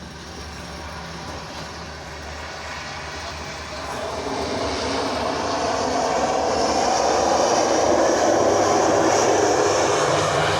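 Airplane flying past, its engine noise swelling over several seconds and loudest near the end.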